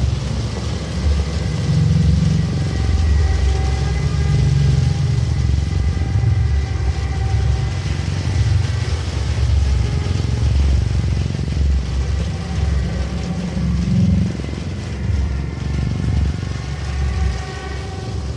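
A continuous heavy low rumble that swells and dips, with faint held tones above it.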